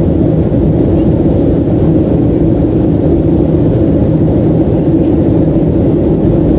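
Steady cabin noise of a Boeing 737-300 under way: a loud, even rumble of its CFM56-3 engines and airflow, heavy in the low end.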